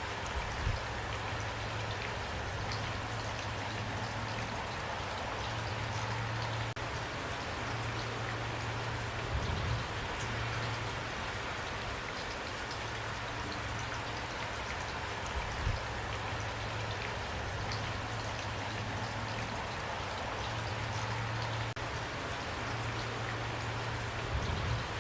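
Steady rain falling, a dense even hiss with scattered individual drop ticks. A few brief low thumps stand out, about a second in, near the middle and near the end.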